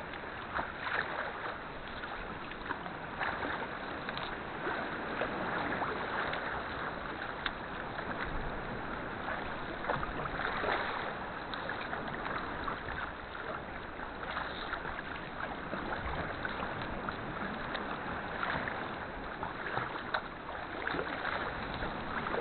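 Sea kayak being paddled on the sea: a steady wash of water with many small splashes and drips from the paddle strokes and water slapping the hull.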